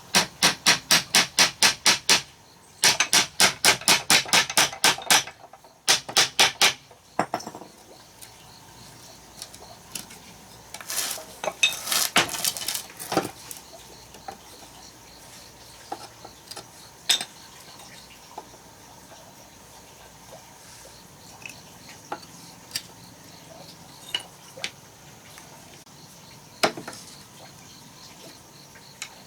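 Rapid, evenly spaced sharp knocks, about six a second, in two runs of two to three seconds each. After them come scattered knocks and light clinks.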